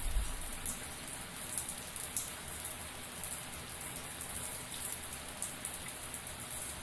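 Shower water spraying steadily and pattering with fine drops, with a brief low thump right at the start.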